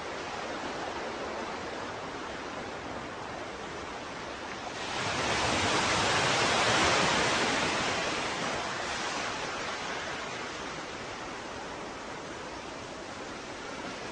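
Ocean surf washing steadily. About five seconds in, one wave surges louder and fades back over a few seconds.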